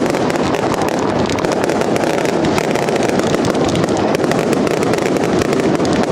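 Many F2 firework batteries (cakes) firing at once: a dense, continuous barrage of bangs and crackling with no pause.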